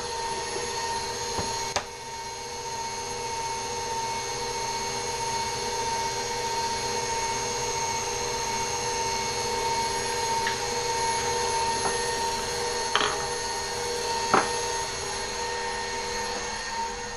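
Bowl-lift stand mixer motor running steadily, beating cookie dough, with a few sharp clicks.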